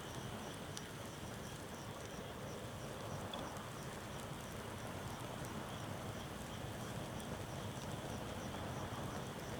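Wood fire burning with a steady low rush and a few sharp crackling pops, while insects chirp in an even high pulse about three times a second.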